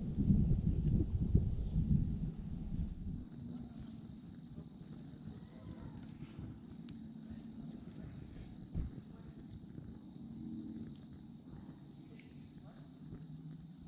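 Steady high-pitched chorus of night insects, typical of crickets, with a second, higher strand joining a few seconds in. A louder low rumbling noise covers the first three seconds, and there is a single soft thump about nine seconds in.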